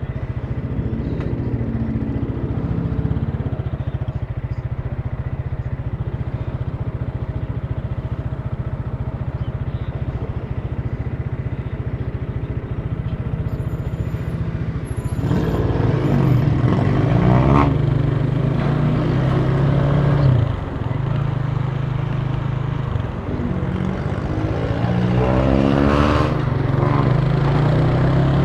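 Italika TC300 motorcycle engine running steadily at low revs, then from about halfway it gets louder and the revs climb and fall several times, with brief drops as gears change while it accelerates.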